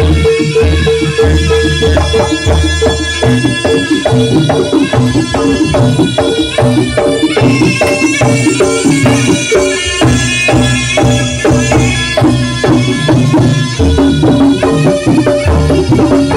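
Loud live jaranan (kuda lumping) music: percussion playing a steady, busy rhythm under a pitched melody, with a deep low pulse dropping in and out.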